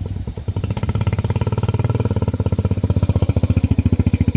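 Motorbike engine running with a fast, even putter, growing a little louder toward the end.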